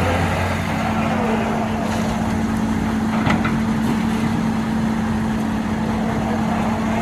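Heavy machine's diesel engine running steadily under work, with a constant hum and a brief knock about three seconds in.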